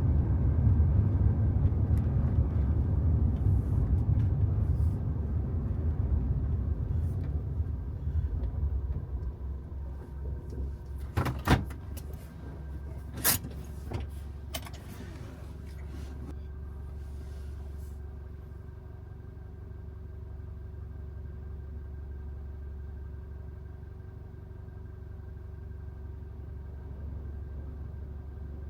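Toyota HiAce van running: a heavy low rumble that dies down over the first ten seconds, a few sharp clicks and knocks about halfway, then a steady, quieter low hum with faint steady tones, like an engine settling to idle.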